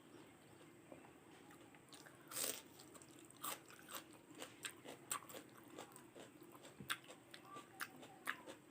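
A person biting into crunchy food close to the microphone, then chewing it with a run of crisp crunches about twice a second. The first bite, about two seconds in, is the loudest.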